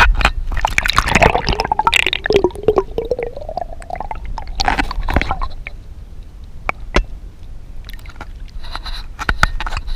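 River water splashing and gurgling close up, with scattered knocks and a wavering gurgle that rises in pitch about three seconds in.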